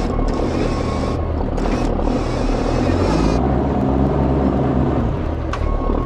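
Heavy truck diesel engine running steadily. A backup alarm beeps over it at the start and again near the end.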